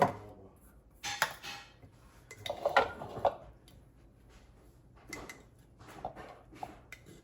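Dishes and cutlery clattering as they are handled on a kitchen counter: scattered clinks and knocks, the loudest a little after one second and just under three seconds in.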